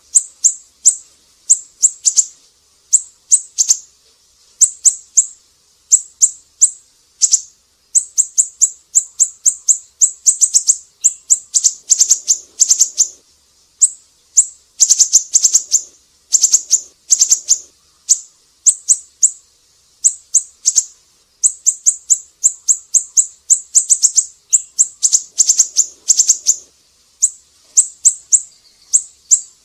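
Siri-siri bird singing: rapid clusters of short, high, sharp chirps repeated over and over with brief pauses between phrases.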